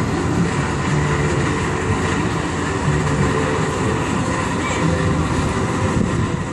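Steady, loud vehicle rumble with a low hum running through it.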